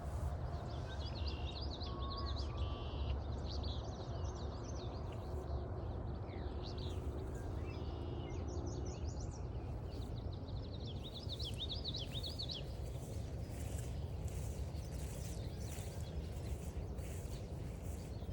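A songbird singing phrases of quick, high chirping notes: one from about a second in to about four seconds, then a longer run from about seven to twelve seconds in. Under it is a steady low rumble.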